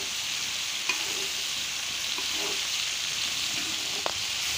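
Chicken pieces, onions and freshly added chopped tomatoes sizzling in a hot iron tawa as a steady frying hiss. There is a light knock about four seconds in.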